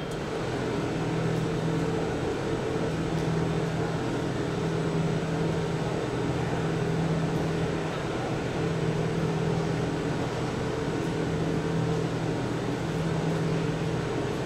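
Steady mechanical hum of a train standing in the station, its engine or onboard equipment running, with a low tone that swells and fades every second or two.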